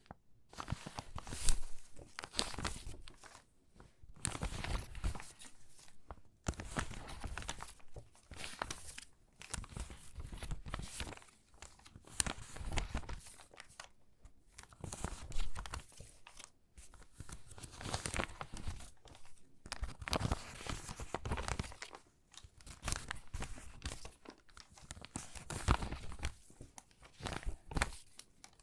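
Water-damaged magazine pages being handled and sorted by hand: stiff, crinkly paper rustling and crackling in irregular bursts with short pauses between them.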